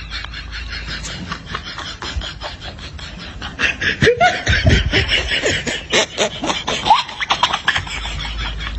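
Laughter in quick, rapid pulses that grow louder about four seconds in, with high rising and falling voice sounds, then ease off near the end.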